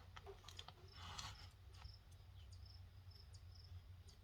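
Near silence: faint cricket chirping, short high chirps repeating evenly, over a low steady hum, with a few faint clicks about a second in.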